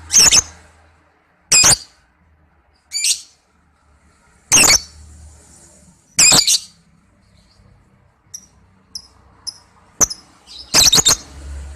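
Lovebird giving short, high-pitched calls, one roughly every one and a half seconds, with a few soft chirps about two thirds of the way in and a quick double call near the end. This is a lure recording of lovebird song, played to get other lovebirds to answer.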